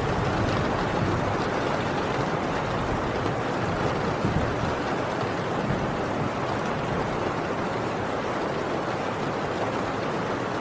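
Heavy rain drumming steadily on a tin roof, a dense, even downpour with no break.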